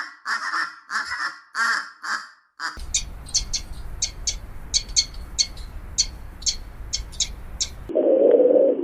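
Animal calls in three parts. First a run of short, pitched calls about three a second that stop about two and a half seconds in. Then high, quick bird chirps, often in pairs, over a low rumble, and near the end a louder, lower call begins.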